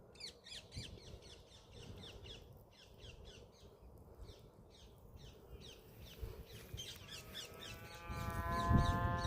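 Birds chirping in quick repeated calls. About seven seconds in, a steady pitched hum joins them with a low rumble underneath, and the sound grows louder near the end.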